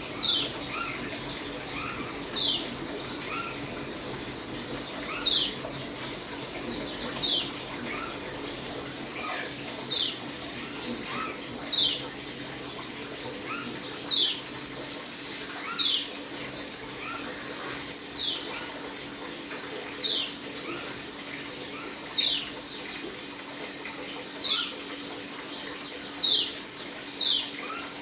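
A pleci (white-eye) of the Dakun type giving short, high, downward-slurred call notes, one about every two seconds, starting to call as it settles in conditioning. A steady low hum runs underneath.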